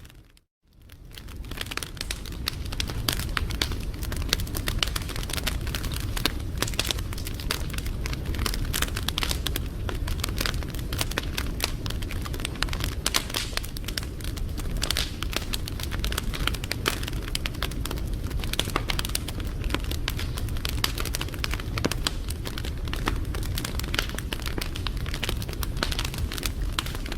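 Wood fire crackling, with many small sharp pops over a steady low rumble. The sound cuts out for a moment just after the start and fades back in.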